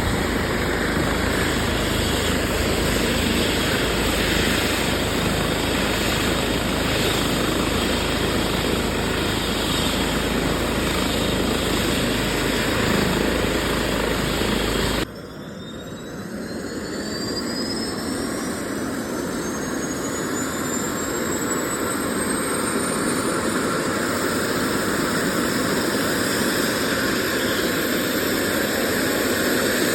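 Air ambulance helicopter running with a steady turbine and rotor noise. About halfway through the sound cuts abruptly to a quieter level, then a high turbine whine climbs steadily in pitch.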